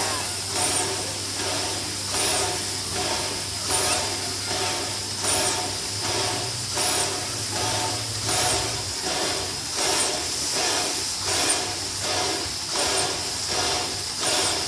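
Steam locomotive working at slow speed, its exhaust chuffing in a steady rhythm over a constant steam hiss, with a stronger beat about every second and a half.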